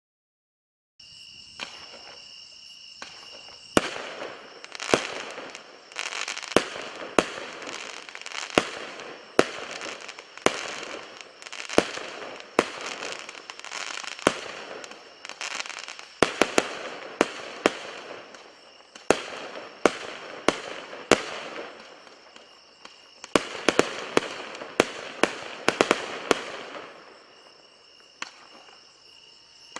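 Fireworks going off: a long run of sharp bangs, about one or two a second, each followed by crackling. They start about four seconds in, come in quick clusters at times, and thin out near the end.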